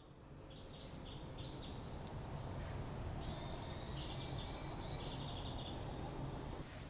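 High-pitched chirping calls from small animals over a low steady background noise: a few short repeated chirps near the start, then a dense run of chirping from about three to six seconds in.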